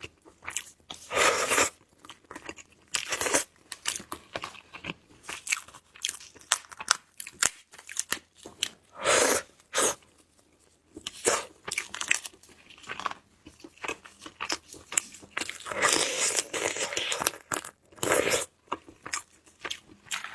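Close-miked eating of shellfish: shell cracking and crunching between bites, with wet chewing, in irregular crackly bursts and clicks.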